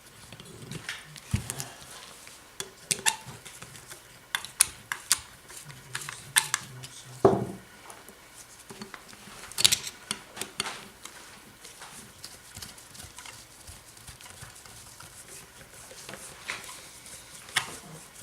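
Small metal parts and hand tools clinking and tapping against a Zenith 35/40 carburetor as it is reassembled by hand: irregular light clicks and knocks, busiest in the middle with one sharper knock, then fewer and quieter near the end.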